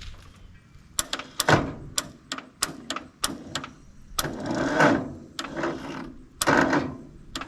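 Failed attempts to start a Ford 8N tractor: irregular sharp clicks and knocks from the starter, with a couple of short, weak cranking bursts, the sign of a battery that is not holding a charge.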